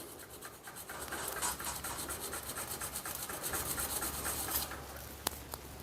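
Steel screwdriver tip rubbed back and forth on 180-grit sandpaper in quick, even, scratchy strokes, taking off the burr left from reprofiling the tip. The strokes stop shortly before the end, followed by a couple of light clicks.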